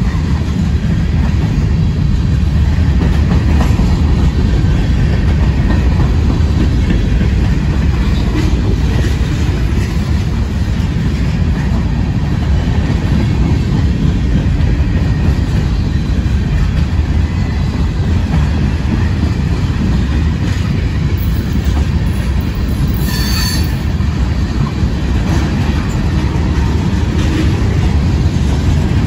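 Freight cars (tank cars and covered hoppers) rolling past close by: a loud, steady low rumble of steel wheels on rail with clattering over the rail joints. A brief high-pitched wheel squeal rises over it about two-thirds of the way through.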